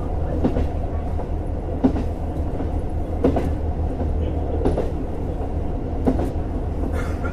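JR Hokkaido KiHa 150 diesel railcar running along the line: a steady low rumble with wheel clicks over the rail joints about every second and a half.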